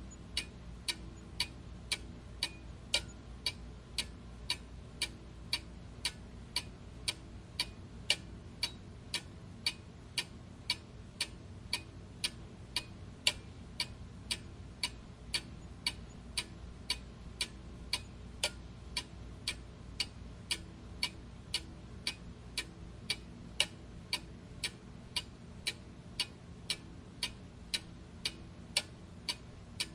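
Clock ticking steadily, about two ticks a second, with a faint low hum beneath.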